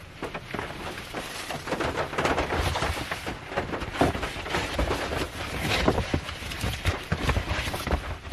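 Rain falling on the roof and body of a Honda Step Wagon minivan, heard from inside the cabin: a dense, irregular stream of drop taps over a steady hiss that swells and eases.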